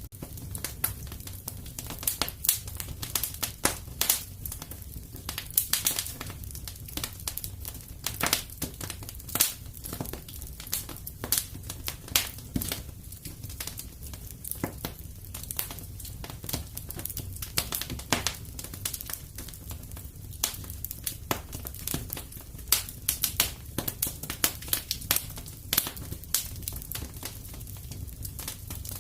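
Wood fire crackling in a fireplace, with frequent irregular pops and snaps over a low steady rumble.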